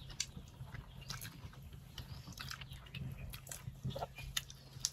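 People chewing and biting into pork momos eaten by hand, faint wet mouth sounds with scattered short smacks and clicks.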